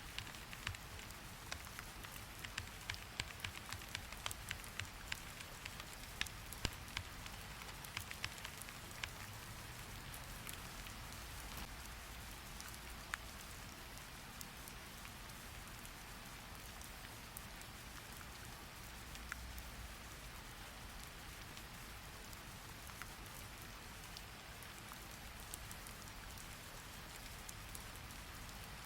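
Steady rain, with sharp clicks that come thick and fast for the first ten seconds or so and then thin out to an occasional one.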